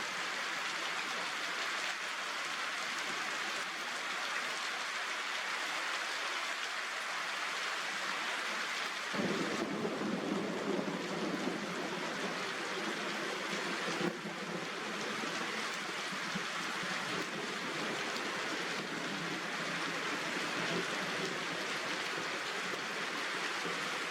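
Steady downpour of rain hissing. About nine seconds in it grows heavier, adding a deeper rush that holds to the end.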